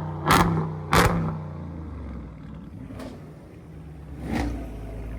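A car engine running at idle with a low, steady hum, broken by sharp cracks: two close together near the start and one more about four seconds in.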